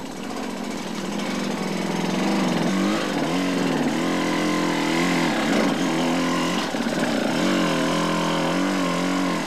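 Off-road enduro motorcycle engine revving hard, its pitch rising and falling repeatedly as the throttle is worked.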